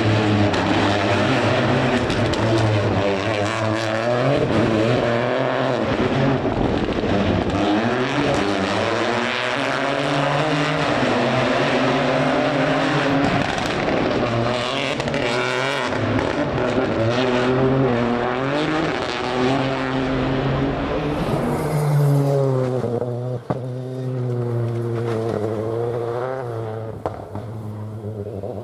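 Rally car engine revving hard on a stage, its pitch climbing and dropping again and again through gear changes. A little past the three-quarter mark the sound thins out and the engine note carries on, fainter and moving away.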